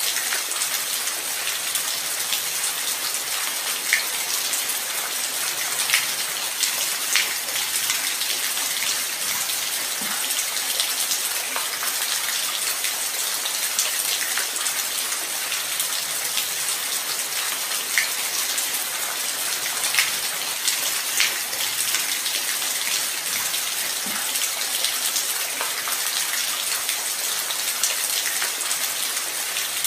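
Light rain falling steadily: an even, high hiss with scattered louder drop ticks.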